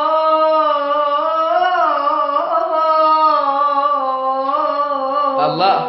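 A single voice singing long, drawn-out held notes without words, the pitch bending slightly up and back, with a brief break near the end before the note settles again.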